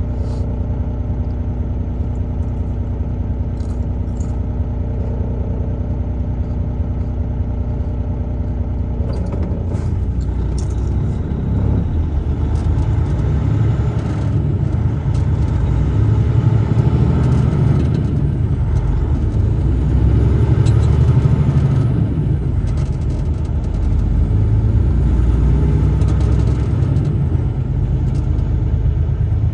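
Truck engine running with a steady, even hum for about the first nine seconds, then a louder low rumble of engine and road noise as the truck drives on.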